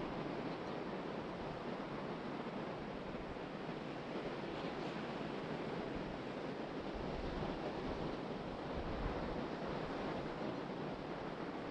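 Ocean surf washing steadily onto the beach, with wind blowing and buffeting the microphone.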